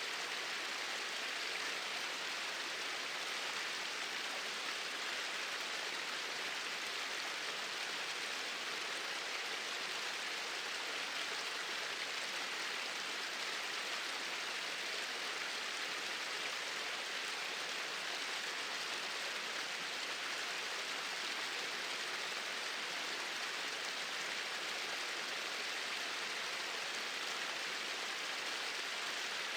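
Small waterfall: water pouring in a steady, even rush that does not change.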